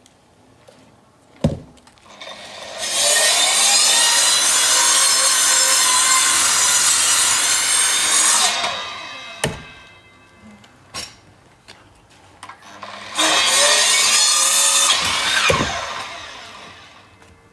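Power saw cutting through a log in two long cuts. Its motor winds down after each cut, and a couple of knocks come between them.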